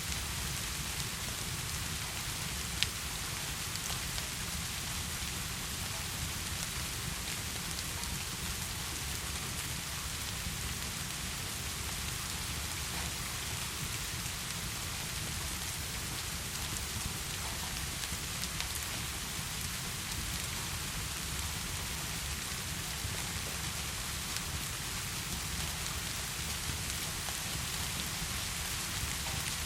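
Steady heavy rain falling, with scattered faint clicks and one sharper click about three seconds in.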